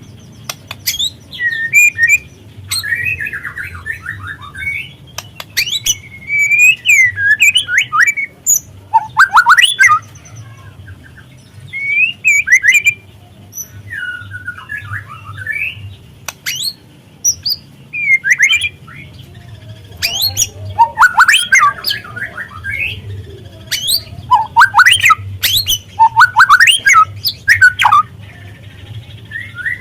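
Juvenile white-rumped shama singing in phrases of quick sweeping chirps and trills, with short pauses between phrases. A faint low hum runs underneath.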